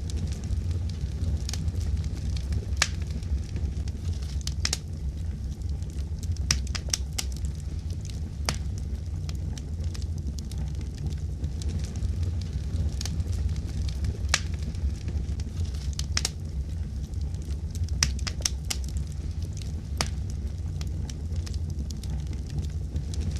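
Fireplace wood fire crackling: scattered sharp pops and crackles over a steady low rumble of the flames.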